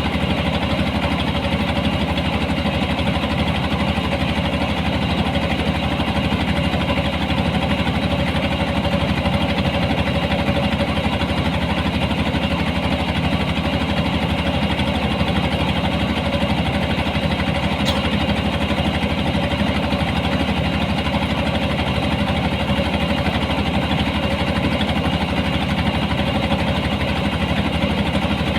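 Engine of a harvesting machine running steadily at constant speed, with an even mechanical drone throughout.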